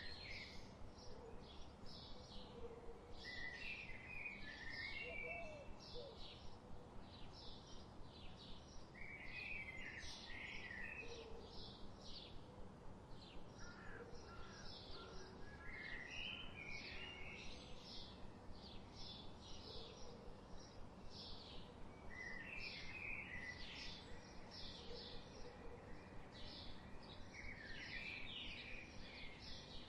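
Songbirds in a forest: a steady run of short high chirps, two or three a second, with a short warbling song phrase breaking in every few seconds, over a faint background hiss.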